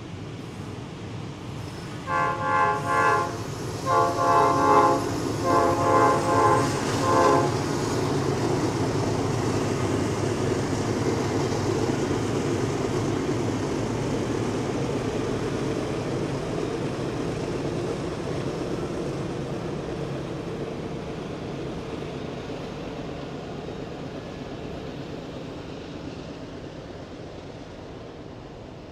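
Norfolk Southern freight locomotive's multi-chime air horn sounding a series of blasts about two seconds in, then the steady rumble of the slow-moving freight train rolling by, slowly fading.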